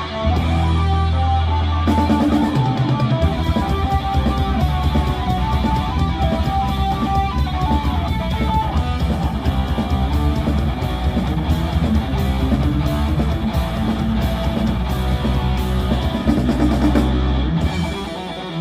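Rock band playing live: electric guitar lines over bass and a drum kit, with no singing. The drums drop out near the end, leaving the guitars.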